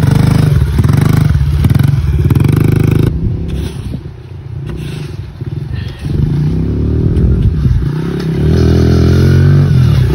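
Small Honda four-stroke pit bike engine running hard for about three seconds. The note then drops away quieter for a few seconds as the rider goes over a jump, and picks back up about six seconds in, louder again near the end.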